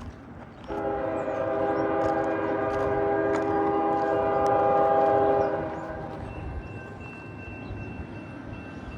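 Air horn of a lead GE freight locomotive sounding one long chord-like blast that starts about a second in and lasts about five seconds, getting a little louder just before it cuts off, over the low rumble of the passing train.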